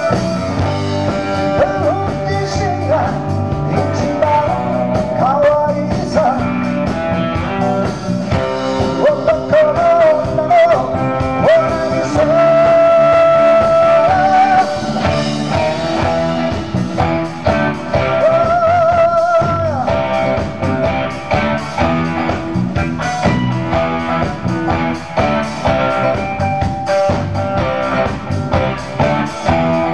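Live rock-and-roll band playing at full volume, with a lead line of bent, wavering held notes over the band.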